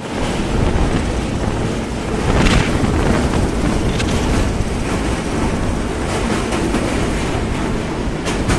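Train running across a steel girder bridge, heard from on board: steady wheel rumble with wind on the microphone, and a few sharp clacks from the rails.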